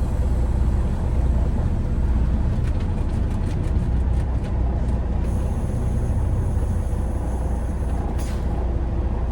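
Semi truck's diesel engine running with a steady low rumble. A run of quick clicks comes a few seconds in, and a short hiss near the end.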